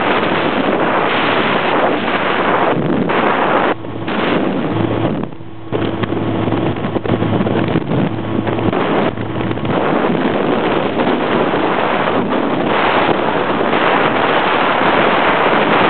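Ramzey 250 cc chopper motorcycle running, heavily buffeted by wind noise on the microphone. A steady engine hum shows through the rush for a few seconds near the middle.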